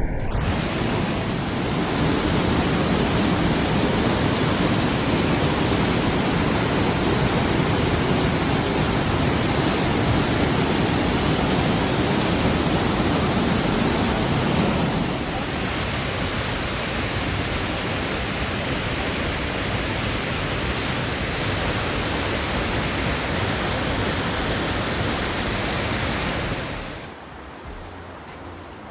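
Waterfall rushing, a steady wash of falling water. It drops in level about halfway through and drops further near the end.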